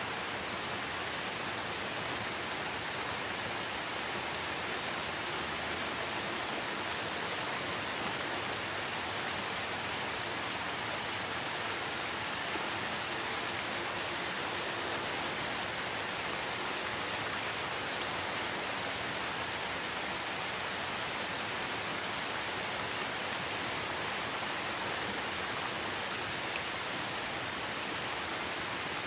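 Steady heavy rain falling on leaves and surfaces, an even hiss with occasional faint drop ticks.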